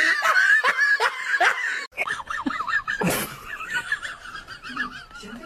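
High-pitched laughter in quick repeated bursts. It breaks off briefly about two seconds in, and softer laughter carries on after.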